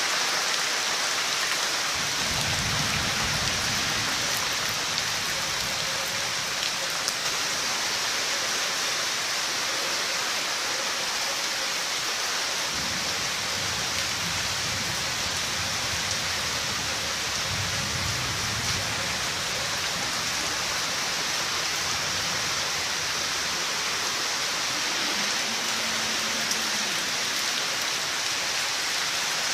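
Steady heavy rain from a thunderstorm, falling on surfaces in a dense, even hiss. Several low rumbles swell and fade under it.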